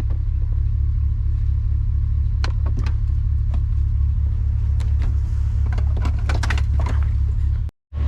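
Truck running, a steady low rumble, with scattered sharp clicks and rattles from about two and a half seconds in, most of them in the second half.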